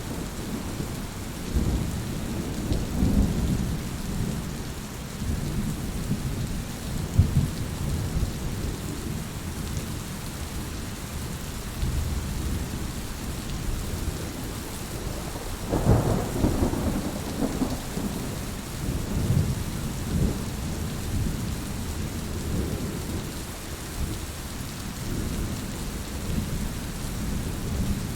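Heavy rain falling steadily, with thunder rumbling low underneath and swelling several times, most strongly about halfway through.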